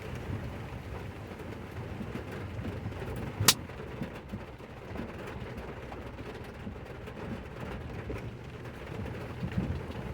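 Ford Raptor pickup truck driving off-road, a steady low rumble, with a single sharp click about three and a half seconds in.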